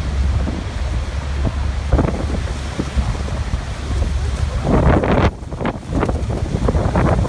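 Waterfall rushing, a steady roar, with gusts of wind buffeting the microphone that make it surge briefly about two seconds in and again about five seconds in.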